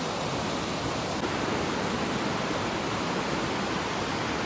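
A river rushing steadily over rocks: a continuous, even wash of water.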